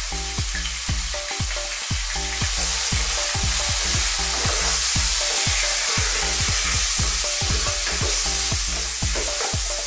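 Diced beef and carrots, with turmeric and spices, sizzling steadily in hot oil in a pot while a wooden spoon stirs them.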